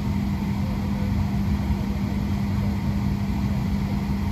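Steady cabin hum inside a Boeing 737-700 on the ground before takeoff, with one strong, unchanging low tone under an even rush of noise.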